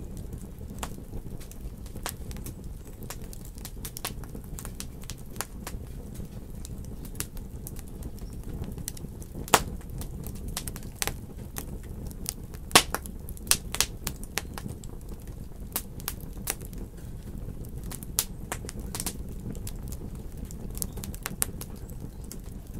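Wood fire burning in a fireplace: a steady low rumble of flame under frequent irregular crackles and pops, with two louder snaps about ten and thirteen seconds in.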